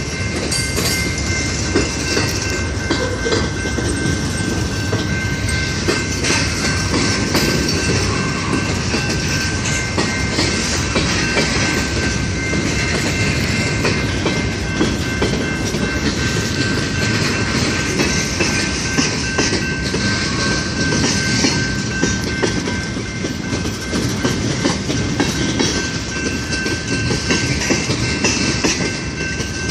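Norfolk Southern mixed freight train rolling past close by: a steady rumble of steel wheels on rail with clicking over the rail joints, and a thin high-pitched ring held steady above it.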